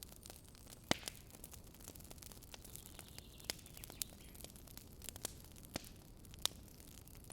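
Wood campfire crackling: sharp, irregular pops and snaps over a faint steady hiss of burning, the loudest pop about a second in.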